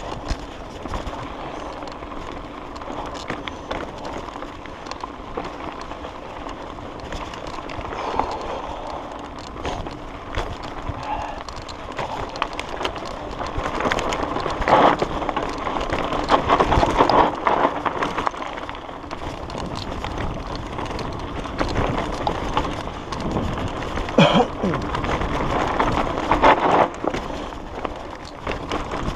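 Mountain bike riding a dirt trail: steady tyre noise over the ground, with sharp knocks and rattles from the bike over bumps, loudest about halfway through and again near the end.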